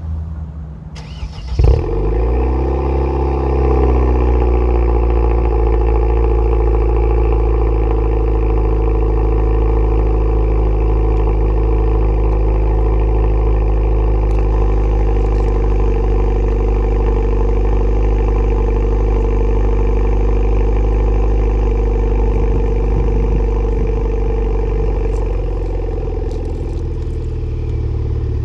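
Kia Stinger 2.0 turbo four-cylinder with a GT-9 valved aftermarket exhaust, cold-started: it fires about a second and a half in, flares and settles into a steady, fast cold idle. The idle eases slightly near the end.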